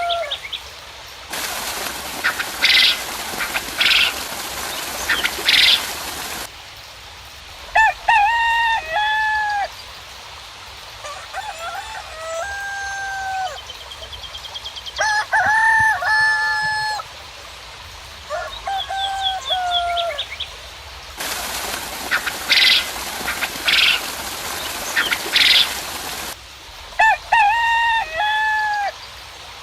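Roosters crowing again and again, with hens clucking and small birds chirping. Twice, about five seconds of rain-like hiss comes in under louder calls and stops suddenly.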